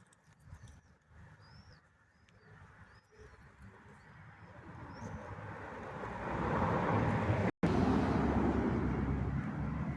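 Small birds chirping with short, curving calls, then the noise of a vehicle swelling up over the second half and staying loud. The sound cuts out for an instant about three-quarters of the way through.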